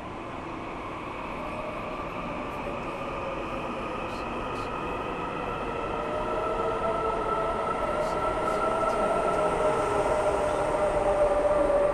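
Taiwan Railway train approaching, its rumble growing steadily louder, with several steady whining tones over it.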